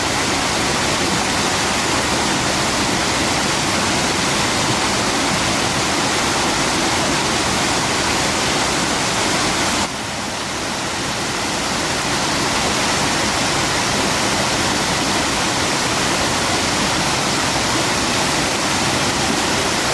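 Steady rush of a highland waterfall's falling water. The level drops suddenly about ten seconds in, then builds back up.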